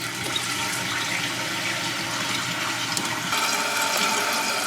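Water rushing from a newly installed Fluidmaster 400 fill valve into an emptied toilet tank as it refills, a steady hiss that gets a little louder about three seconds in.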